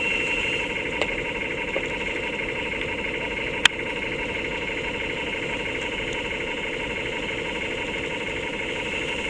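Simulated engine sound from an RC model tug's sound module, running steadily, with a sharp click about three and a half seconds in.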